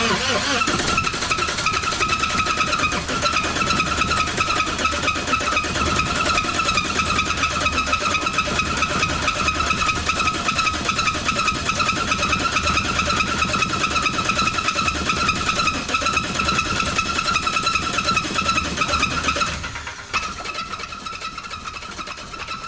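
2006 Toyota Corolla engine cranked on its starter motor for about twenty seconds, a steady whine over the turning engine, without catching. It stops near the end. The worn engine, damaged by running on Purple Power degreaser, turns over but will not fire.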